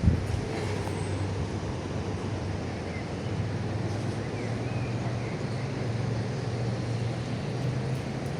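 A steady low engine drone over a noisy, wind-like haze, with one sharp knock right at the start.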